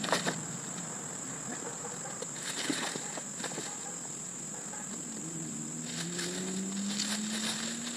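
Insects chirring steadily at a high pitch in the background, with scattered rustles and clicks of packaging being handled. A faint low hum rises slowly in pitch over the last few seconds.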